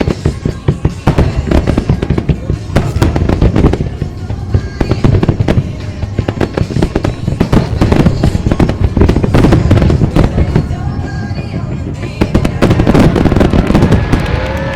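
Dense barrage of aerial fireworks shells bursting in quick succession, many booms and crackles overlapping, with music playing behind them.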